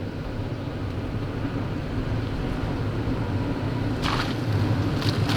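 Car driving on the road: a steady low rumble of engine and road noise, with a rushing hiss joining in about four seconds in and growing louder.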